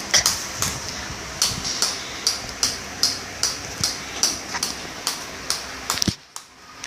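Footsteps on a hard floor, about two to three steps a second, stopping abruptly near the end.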